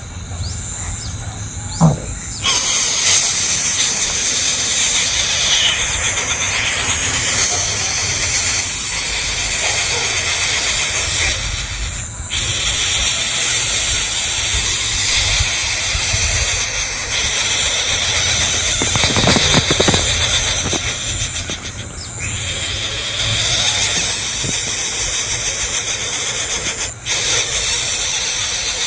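Steady, dense high-pitched hiss and buzz of outdoor ambience, with a low rumble underneath. It drops out for a moment a few times.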